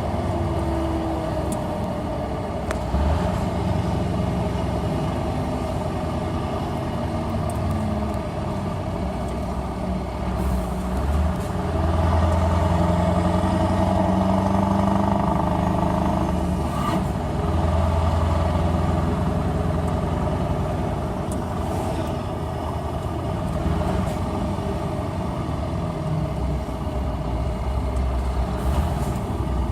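Scania R500 V8 truck engine running through an open exhaust, idling with a couple of rises in engine speed that last a few seconds each.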